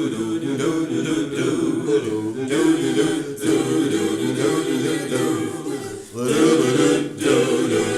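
Choir of mixed voices singing a cappella in harmony, with no clear words, briefly dropping away just before six seconds in and then coming back fuller.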